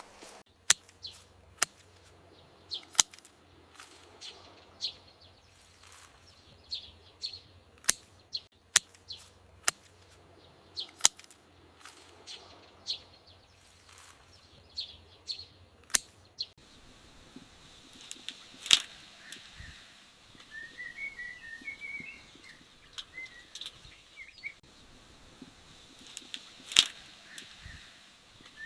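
Scattered sharp drips and taps of rain falling in the garden, irregular, a few each second, with short high chirps among them. From about two-thirds of the way through, a small bird twitters in quick warbling phrases.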